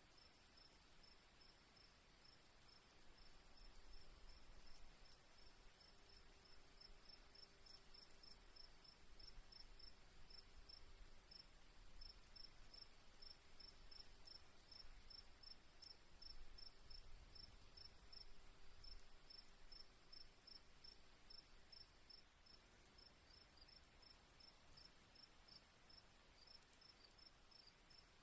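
Crickets chirping faintly, a rapid even pulsing of several chirps a second over a continuous high, steady insect trill.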